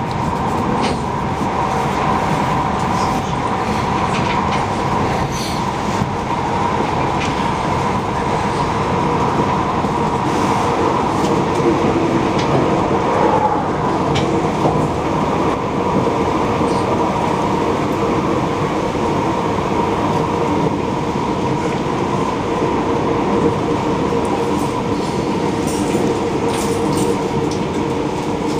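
Passenger train running along the line, heard from inside the carriage: a steady rumble of wheels on rails with a steady whine and a few light clicks.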